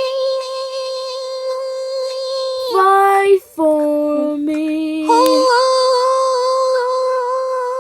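A high voice singing without words: a long held note, a run of shorter lower notes a few seconds in, then the high note held again.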